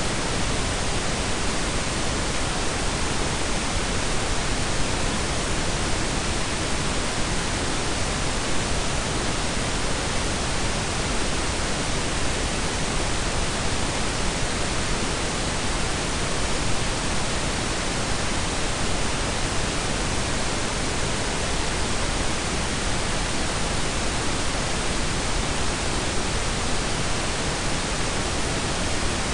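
Steady blend of pink and brown noise: an even, unbroken hiss with a deep rumbling low end, without changes or events.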